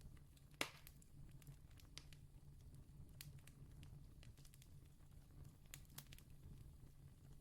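Faint crackling of a distant wood campfire: scattered small pops and snaps over a low steady rumble, with one sharper pop about half a second in.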